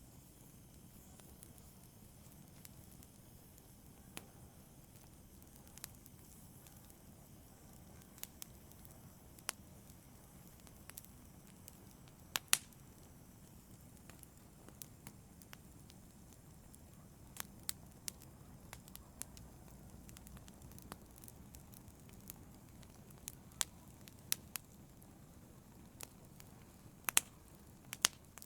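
Wood fire in a fireplace crackling, with a soft steady rumble and hiss of the flames and sharp pops scattered at irregular intervals, the loudest a quick double pop about midway and another pair near the end.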